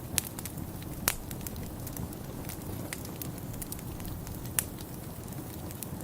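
Wood fire in a fireplace crackling, with scattered sharp pops, the loudest about a second in and again near the five-second mark, over a steady low rumble.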